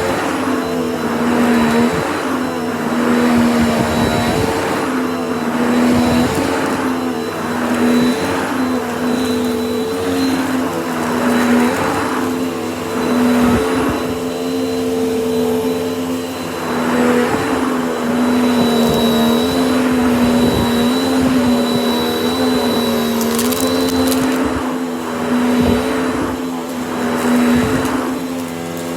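Vacuum cleaner running continuously: a steady motor hum with a thin high whine over it, and a rush of air that swells and dips every second or two.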